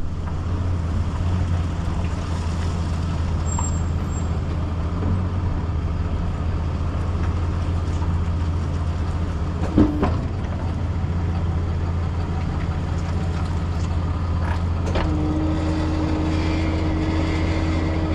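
Kenworth T270 tow truck's diesel engine running steadily. There is a single sharp knock about ten seconds in, and a steady whine starts near the end.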